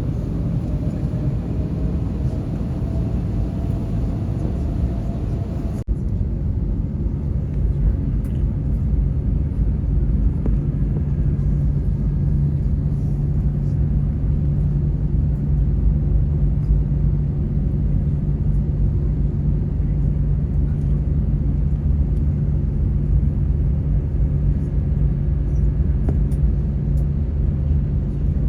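Jet airliner cabin noise: a steady low engine rumble and hum, with a faint whine slowly rising in pitch over the first few seconds. The sound breaks off abruptly about six seconds in, then the steady hum carries on.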